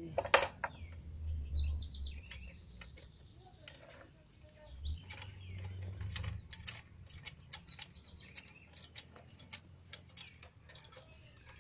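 Birds chirping, with many sharp clicks and knocks scattered through.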